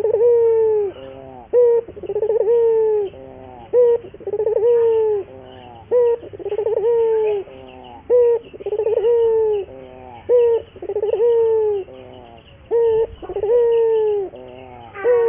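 Barbary dove (burung puter) in full song, cooing over and over. Each call is a short sharp note followed by a longer falling coo, repeated about every two seconds.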